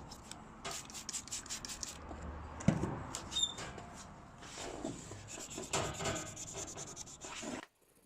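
Sandpaper rubbing back and forth on a san mai steel knife blade in quick, rapid strokes during hand sanding, with one knock about a third of the way in. The sound cuts off suddenly near the end.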